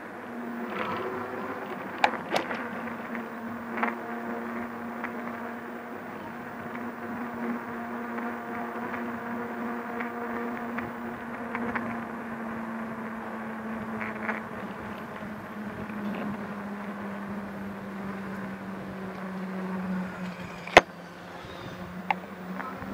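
Electric bike motor whining steadily while riding, its pitch sinking slightly near the end, with a few sharp clicks and knocks, the loudest near the end.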